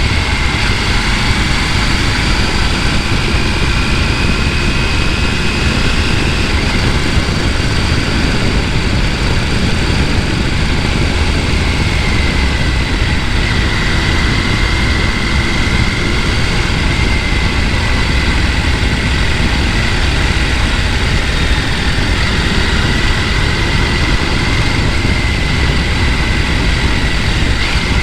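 Rushing water of a mountain stream: a loud, steady rush without pause, with a thin, steady high tone above it.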